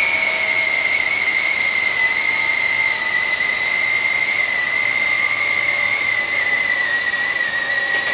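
Hankyu electric train running on its line, heard from behind the driver's cab, with a steady high whine that drifts slightly lower in pitch over an even rushing running noise.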